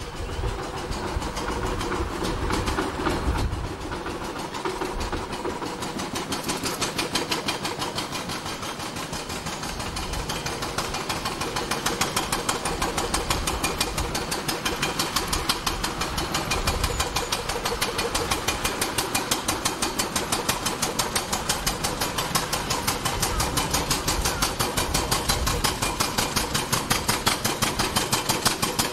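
Engine of an open veteran horseless-carriage motor car running with a rapid, evenly spaced chugging, growing louder as the car approaches.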